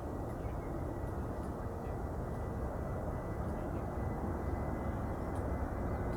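Steady low rumble of a jet airliner's engines, the Turkish Cargo Airbus A330-200 on approach, with a faint steady high tone over it.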